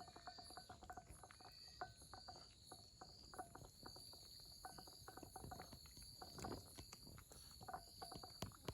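Faint insects chirping outdoors in a steady pulsing chorus, about two pulses a second, with scattered small clicks and ticks throughout.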